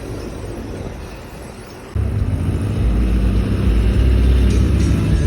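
Car engine running with a deep, loud rumble as it drives by, cutting in abruptly about two seconds in; before that, a quieter engine rumble.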